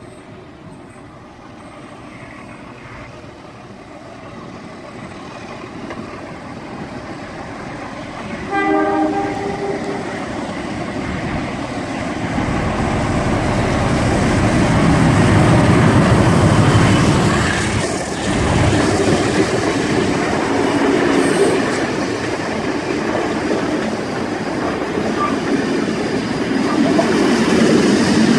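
Alco diesel locomotive 4403 approaching and passing with steam locomotive 3526 at the rear. A short horn blast sounds about eight seconds in. The diesel's rumble and the clatter of wheels over rail joints then grow loud around the middle and carry on as the train goes by.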